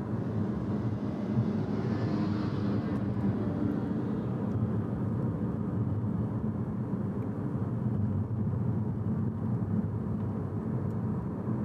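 Steady road and engine rumble of a car driving at about 34 mph, heard from inside the cabin, with a hiss swelling and fading about two seconds in.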